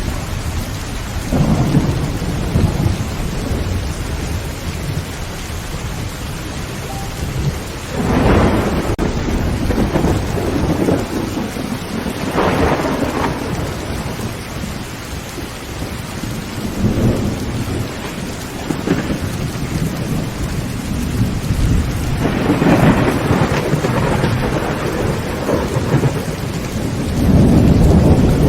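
Heavy rain drumming on a tin tent roof, with rolls of thunder that swell and fade several times, strongest a little past 8 seconds in, around 12 seconds and from about 22 seconds on, and a deep rumble near the end.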